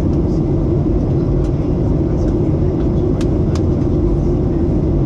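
Steady roar of a Ryanair Boeing 737's engines and rushing air, heard inside the cabin during the descent. Two faint clicks come a little after three seconds in.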